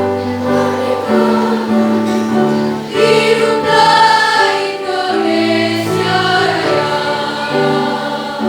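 A high school choir singing in parts, with long held notes that change every second or so.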